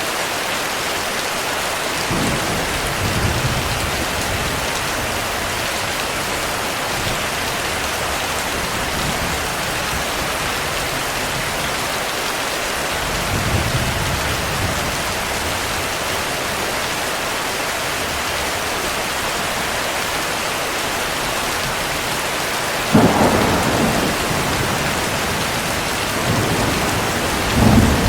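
Steady heavy rain with thunder: soft low rumbles twice early on and midway, then a sharp thunderclap about 23 seconds in that rolls on for a few seconds, and another loud rumble near the end.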